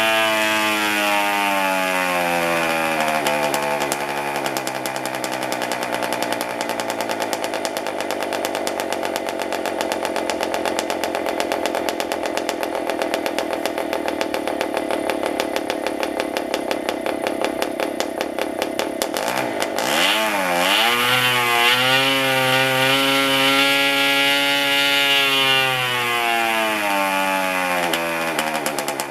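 PAW 40 TBR ball-bearing model diesel (compression-ignition) engine running. It slows over the first few seconds and runs steadily. About two-thirds through, its speed dips briefly and then climbs to a higher speed, holds, and eases back down near the end.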